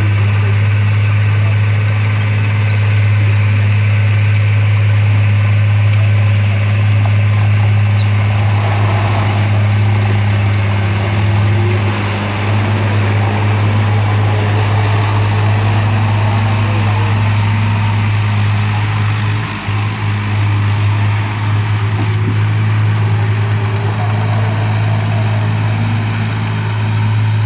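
Truck diesel engine running at a steady idle with a loud, even low drone.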